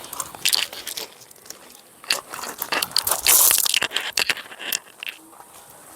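Irregular crunching and scraping, with a louder rustling burst about three seconds in.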